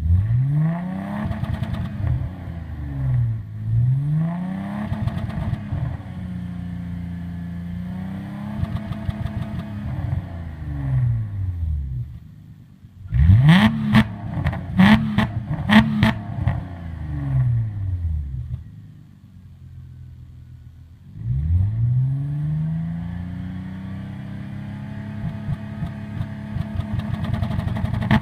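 Mercedes-Benz W210 E-Class engine with a custom exhaust, revved up and let fall back several times in slow rises and falls. Around the middle come three quick sharp blips with sharp cracks from the exhaust, then it settles near idle before a long rev up and down near the end.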